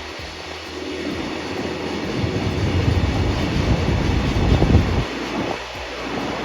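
A train passing close by: a rumble of wheels on the rails that builds over the first few seconds and is loudest just before five seconds in.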